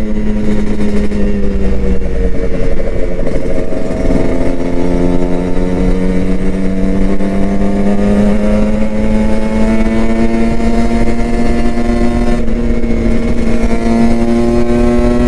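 Kawasaki Ninja RR 150's two-stroke single-cylinder engine running under way; its note dips about four seconds in, then climbs slowly as the bike pulls.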